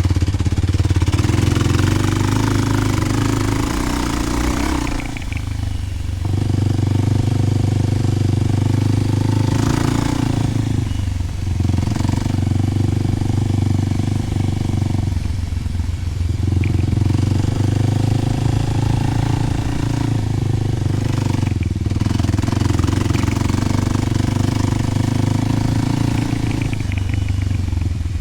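Kawasaki KLX300's single-cylinder four-stroke engine running under throttle through a Delkevic 10-inch oval slip-on exhaust. The note holds steady for a few seconds at a time and dips briefly about four times.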